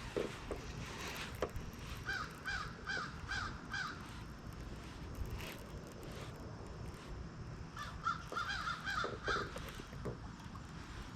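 A crow cawing: a run of about five caws around two seconds in, then another run of about six near the end.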